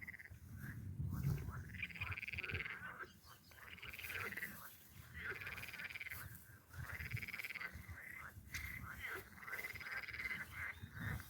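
A chorus of frogs calling, with repeated rattling, pulsed croaks about a second long that follow one another closely, over a low rumble.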